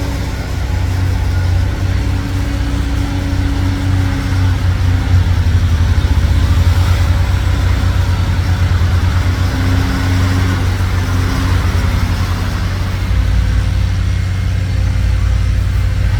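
Dump truck's diesel engine running with a steady low drone, and a higher tone that comes and goes over it.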